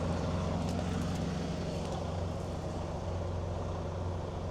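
Box truck's engine idling steadily, with wind noise on the microphone.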